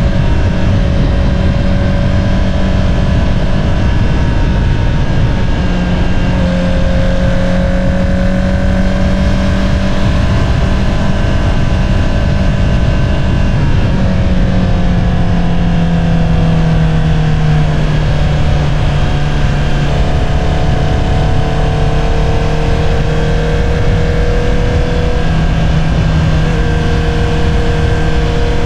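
Honda CBR650R's inline-four engine running through an Akrapovič single-outlet exhaust at a steady cruise, with wind and road noise. The engine note shifts pitch a few times and eases down over several seconds around halfway through.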